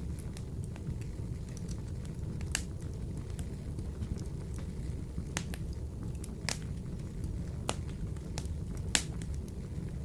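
Wood fire burning in a wood-burning stove: a steady low rumble with sharp crackles and pops every second or so. The loudest pop comes near the end.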